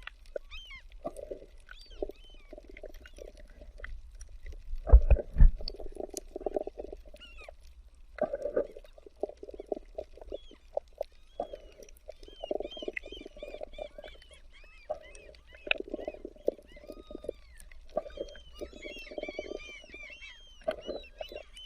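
An animal making repeated short, rough rasping bursts in clusters, with small birds chirping in the background. Two heavy thumps come about five seconds in.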